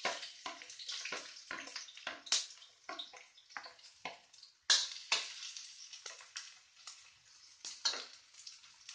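Sliced shallots and garlic sizzling in hot oil in a metal wok, with a metal spatula clicking and scraping against the plate and the wok. A sudden louder burst of sizzling comes about halfway through.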